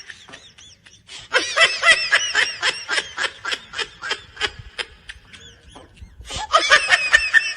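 High-pitched, rapid laughter in quick short pulses: one run starting about a second in and lasting a few seconds, and another starting near the end.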